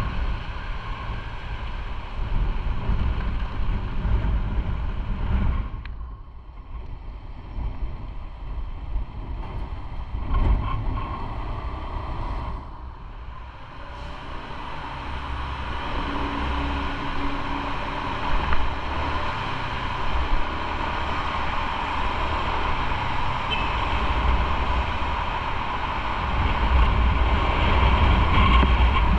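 Motorcycle riding on the road: engine rumble mixed with wind noise on the microphone. It eases off twice, about six and thirteen seconds in, and builds up again toward the end.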